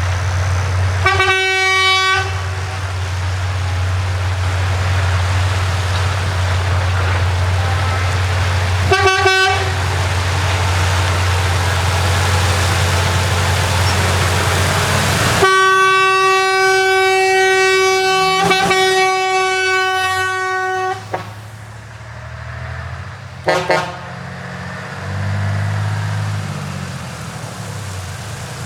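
Truck horn blasts: two short toots, then a long blast of about five seconds and one more short toot, over the steady low running of a truck engine. Near the end an engine revs up and down.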